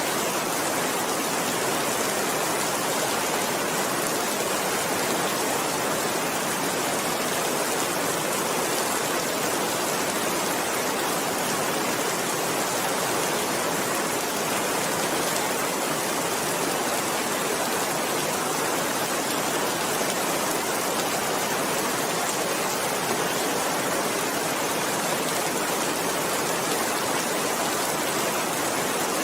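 Steady rain falling, an even, unbroken hiss with no thunder or changes.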